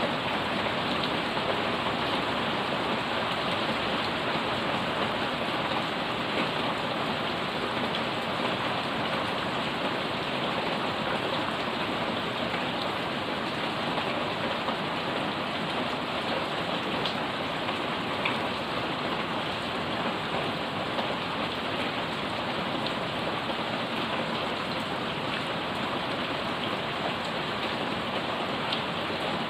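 Heavy rain falling steadily on garden plants and a wet paved yard: a dense, even hiss with a few sharper drop ticks scattered through it.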